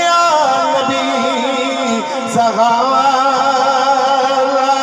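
A man's voice singing Punjabi devotional verse in long, ornamented held notes that slide and waver in pitch.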